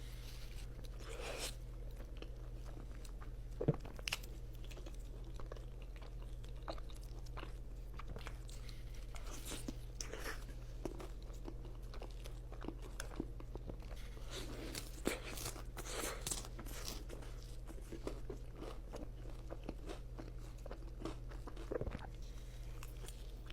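A person chewing and biting food close to the microphone, with irregular crunchy bites and mouth smacks. A steady low electrical hum runs underneath.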